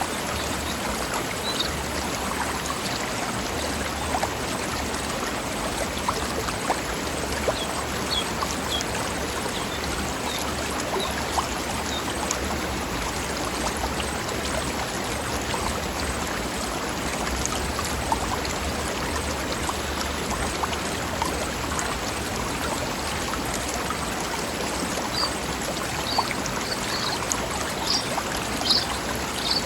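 Forest river flowing over rocks: a steady, dense rush and splash of running water.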